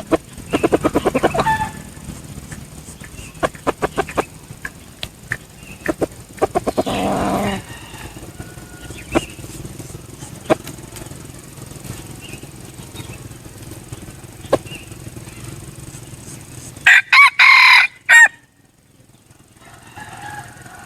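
A junglefowl cock crowing once near the end, a loud, short crow that breaks off abruptly. Earlier there is a fast run of pulses at the start, a brief rush of noise, and scattered sharp clicks.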